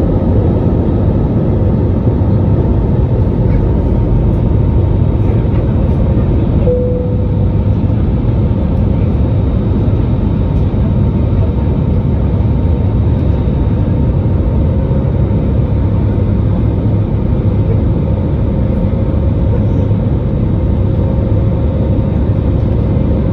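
Airbus A320-200 engine and airflow noise heard inside the passenger cabin during take-off: a loud, steady rumble with a faint steady hum.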